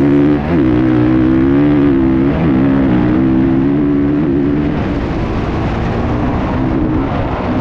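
Motocross dirt bike engine running hard under throttle, its pitch dipping and climbing back about half a second in and again after about two seconds, then holding steadier.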